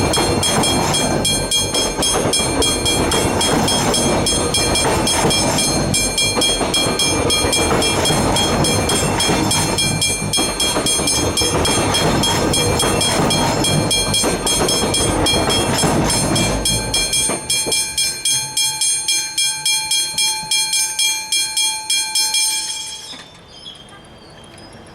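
A train passing through a level crossing while the crossing's warning bells ring in rapid, even strokes. The train noise ends about 17 seconds in, leaving the bells ringing alone until they stop about 23 seconds in.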